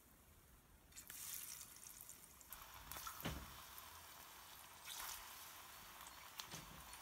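Ripe plantain slices laid one after another into hot oil in a frying pan, each setting off a fresh burst of sizzling: about a second in, again halfway through, and again about five seconds in. A couple of light knocks come as the slices go in.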